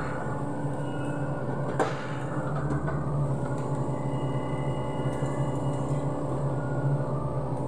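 Sany SY75C excavator's diesel engine running steadily, with one sharp knock about two seconds in.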